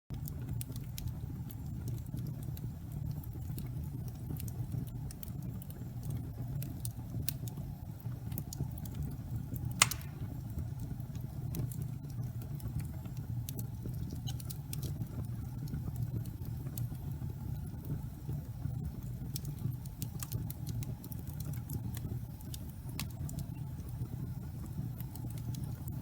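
Wood fire burning in a fireplace: a steady low rumble of flames with scattered crackles of burning logs, and one loud pop about ten seconds in.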